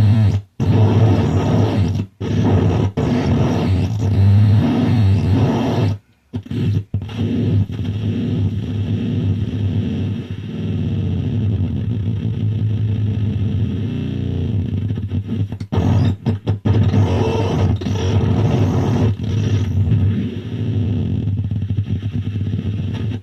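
Harsh electronic noise music: a dense, distorted wash over a strong low hum, cut off abruptly several times into brief silences and stopping suddenly at the end.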